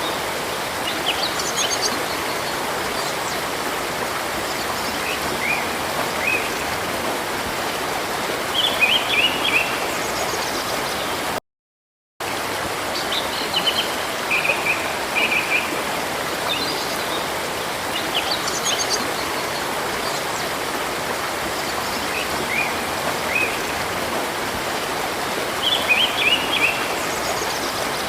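Steady rush of flowing river water with birds chirping over it now and then in short runs of calls. The whole sound cuts out for under a second about eleven seconds in.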